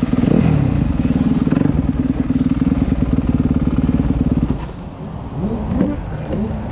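Motocross bike engine running hard under load, then backing off sharply about two-thirds of the way in. After that the engine sound is quieter, with brief rises and falls in revs.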